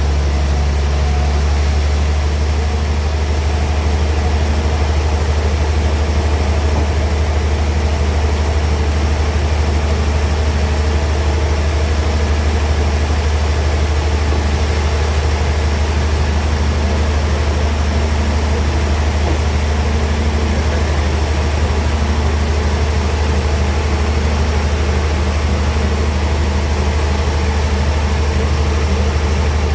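Band sawmill running steadily: a constant low hum with an even hiss over it.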